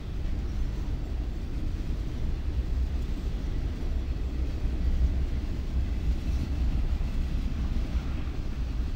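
CSX freight train of enclosed autorack cars rolling past: a steady low rumble.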